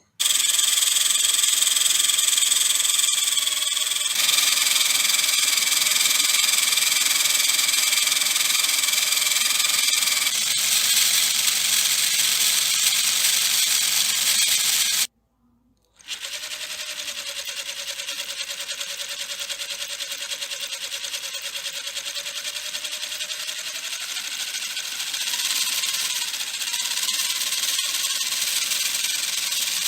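Small electric motor driving a homemade gearbox, running with a steady whine. It stops abruptly about halfway, then runs again with a lower whine that climbs in pitch near the end.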